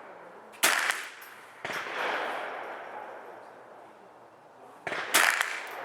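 Four gunshots at uneven spacing, the second trailing off in a long fading echo.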